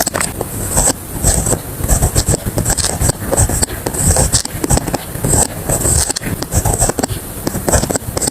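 Writing on paper with a pen or pencil, close to the microphone: quick, irregular scratchy strokes, one after another with short gaps.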